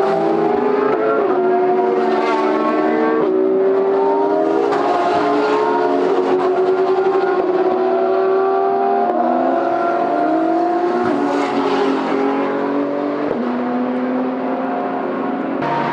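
Several race car engines at high revs on track, their notes climbing and stepping down sharply every few seconds with gear changes.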